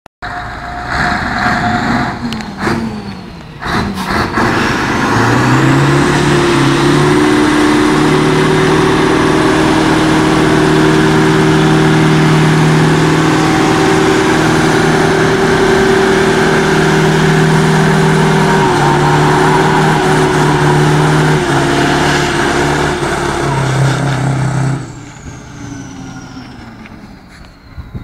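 Scania V8 truck engine revved up about five seconds in and held at high revs while the drive wheels spin in a burnout, a steady hiss of spinning tyres over the engine note. Near the end the revs drop and the sound falls away sharply.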